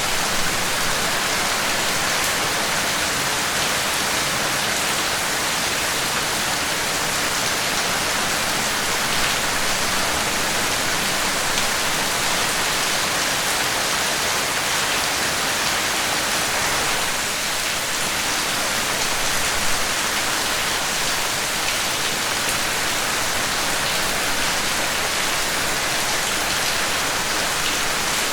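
Steady rain falling, an even hiss of countless drops hitting surfaces, with no thunder or other events.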